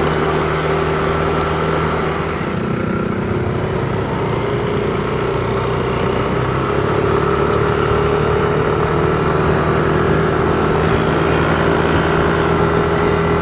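Car driving along at a steady speed: a constant engine hum and road noise, with no marked changes.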